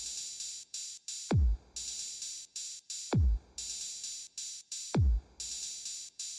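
Electronic music intro on a drum-machine beat: three deep booming kicks that fall in pitch, about every two seconds, with chopped, hissy high-pitched percussion bursts in between.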